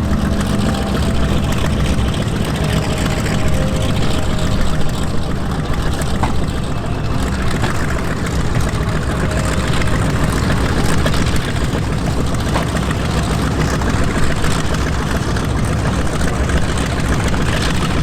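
Douglas C-47 Skytrain's twin Pratt & Whitney R-1830 radial engines and propellers running steadily.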